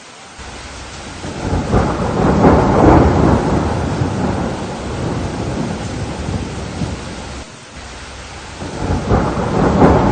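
Steady rain with two rolls of thunder: the first swells about a second in and dies away over several seconds, and a second one builds near the end.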